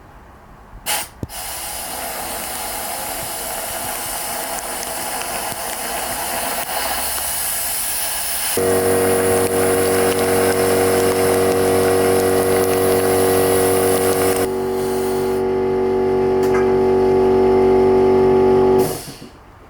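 Water running from a tap into a stone sink. After a click about a second in, a steady rush builds. About halfway through, a steady hum joins it and grows louder, and the flow cuts off abruptly near the end.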